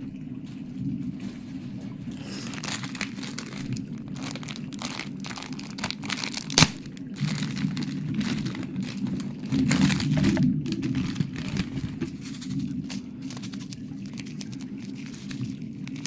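Close-miked ASMR trigger sounds: a dense run of crackling, crinkling clicks, with one sharp snap about six and a half seconds in.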